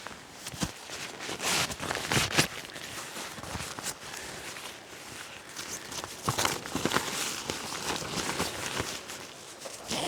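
Footsteps and irregular rustling and crackling of camping gear being handled, likely the new tarp being unpacked.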